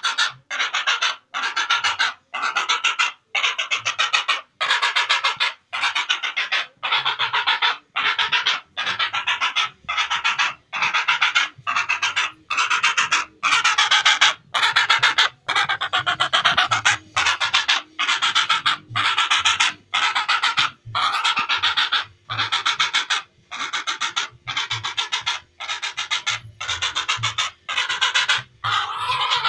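Heron giving harsh, rasping calls, about one a second in an even, unbroken series.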